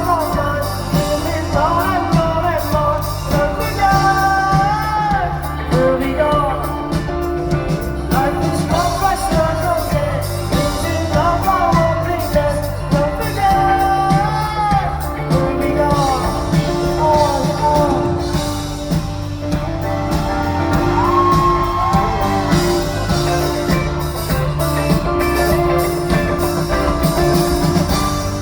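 Live rock band playing loudly in a hall, with a sung melody gliding over steady bass and drums.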